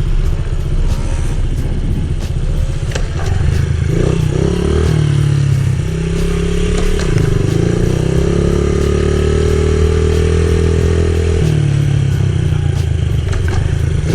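Small pit bike engine running and being revved. The revs climb about six seconds in, hold high for several seconds, then drop back.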